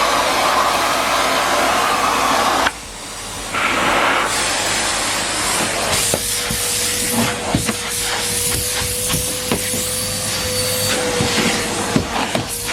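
Numatic Henry Pet vacuum cleaner running under suction: a steady rushing noise with a constant whine. The noise dips suddenly for about a second some three seconds in, and scattered clicks and knocks from the nozzle pass through the second half.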